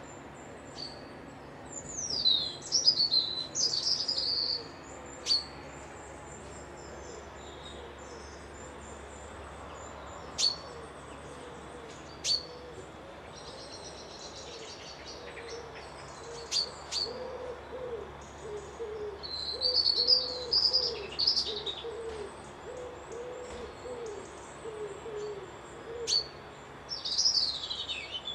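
Wild birds singing, with quick high sweeping phrases and sharp chips. Through the middle and later part, a low call is repeated over and over, well below the songbirds' pitch.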